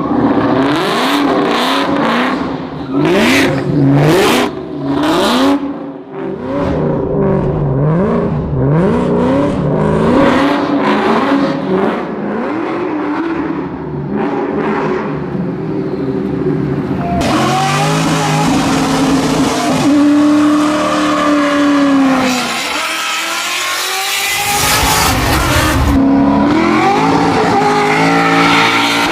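American V8 muscle car engine revving hard in repeated rising sweeps. A little past halfway it is held at high revs over a loud, steady hiss of spinning tyres: a burnout.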